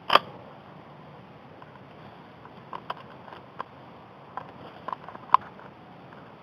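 Quiet background with a handful of short, scattered clicks and taps, the sharpest just at the start and another about five seconds in.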